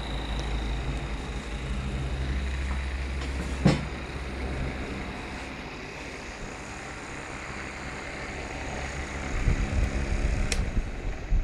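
Small portable USB fan running, its airflow buffeting the microphone with a low rumble that comes in gusts near the end. A sharp click about four seconds in and another near the end.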